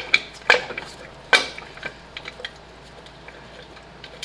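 A few sharp metallic clinks and knocks of tools and car parts being handled, the loudest about a second and a half in, followed by fainter scattered ticks.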